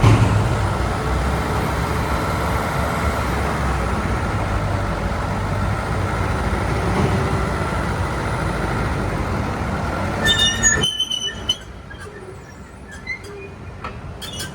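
Komatsu D51PX-24 crawler dozer running, its Komatsu SAA4D107-3 four-cylinder diesel engine giving a steady heavy drone with a constant whine. About ten seconds in there are a few high metallic squeals and clicks, then the loud noise drops off sharply, leaving faint clicks.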